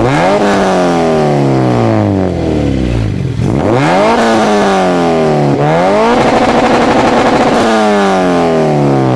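Engine being revved three times: each time the pitch shoots up, then falls slowly back. The third rev is held high for about a second and a half before dropping.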